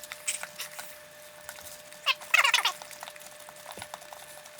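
Chewing and small mouth clicks while chicken nuggets are eaten, with a brief high squeak that falls steeply in pitch about two seconds in.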